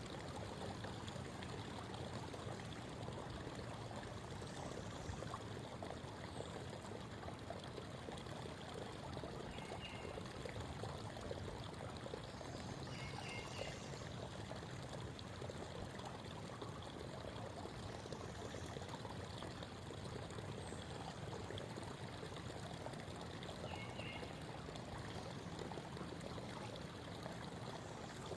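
Creek water babbling and trickling steadily over stones. A bird chirps faintly three times, briefly each time.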